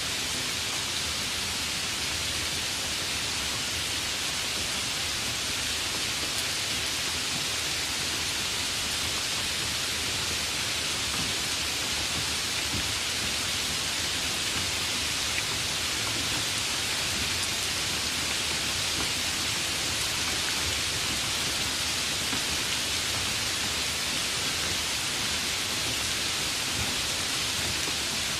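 Steady rain falling: a continuous, even hiss with no single drops or breaks standing out.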